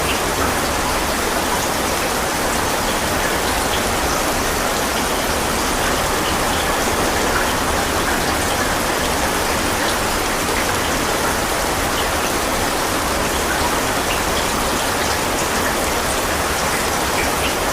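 Steady heavy rain: an even rushing hiss with scattered individual drops, unchanging throughout.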